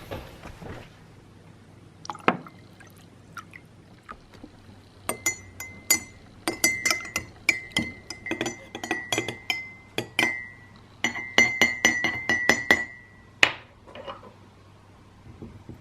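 A spoon stirring a drink in a cup, clinking rapidly against the side for several seconds with a ringing tone, then tapped once on the rim near the end.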